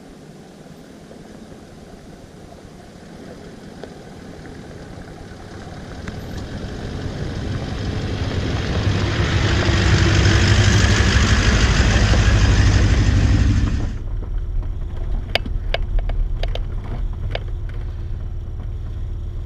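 A 4WD drives up to and past the microphone: engine and tyre noise grow over several seconds and are loudest about ten to thirteen seconds in. The sound then cuts off abruptly to a lower, steady engine hum with a few sharp clicks and rattles.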